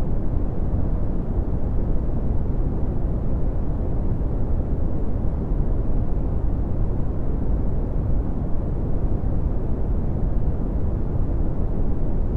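Red (Brownian) noise: a steady, deep rumbling hiss with most of its energy in the low end and little treble.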